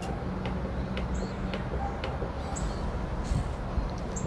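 A bird repeating a short, high chirp about every second and a half, over steady outdoor background noise with a low rumble.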